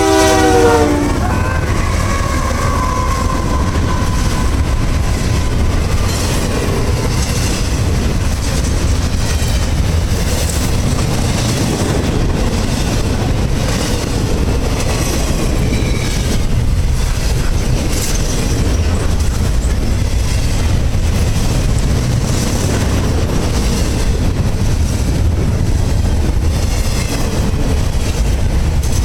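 CSX intermodal freight train passing: the locomotive's horn ends about a second in with its pitch dropping, then a steady rumble and clatter of the cars rolling by, with wheels clacking over the rail joints.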